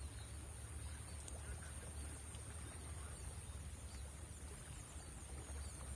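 Faint steady outdoor background at a small river: a low continuous rumble, likely from running water or wind on the microphone, under a steady high-pitched hum, with a few faint chirps.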